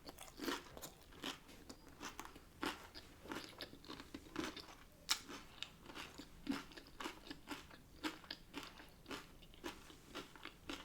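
A person chewing a mouthful of hard-shell taco, the crisp corn shell crunching in many irregular, quiet crackles.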